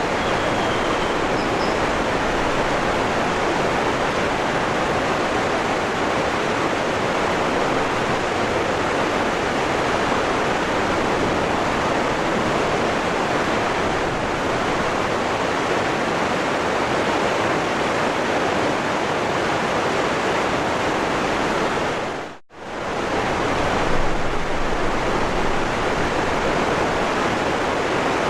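Waterfall rushing, a steady, even wash of falling water. A little past three quarters of the way through, it cuts out abruptly for a split second and comes straight back, as at an edit or loop join.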